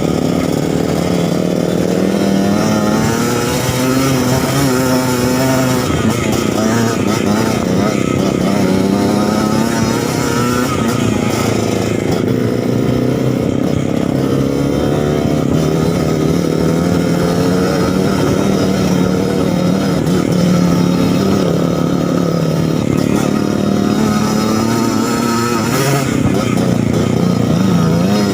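Suzuki TS 125 two-stroke single-cylinder trail motorcycle engine running under load off-road, its pitch rising and falling with the throttle throughout.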